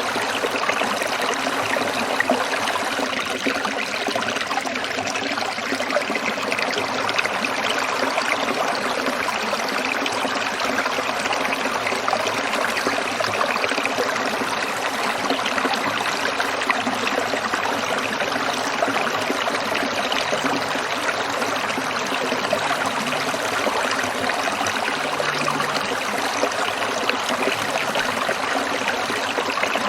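Stream water trickling and burbling over rocks, a steady, continuous flow.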